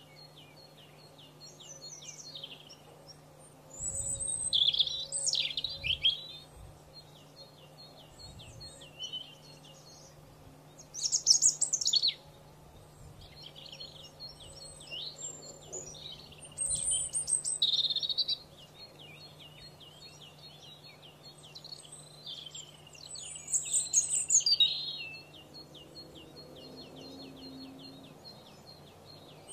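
Canary singing: long runs of fast repeated notes, broken every few seconds by louder warbled phrases. A faint steady low hum runs underneath.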